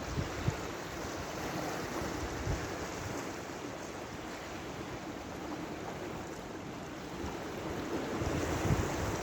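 Sea waves washing on the shore in a steady surf wash, with wind buffeting the microphone in low gusts. The surf swells a little louder near the end.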